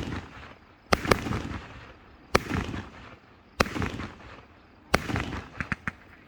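Aerial fireworks bursting: a run of sharp bangs, about one every second or so, each followed by a rolling rumble that fades away. A few quick small pops come near the end.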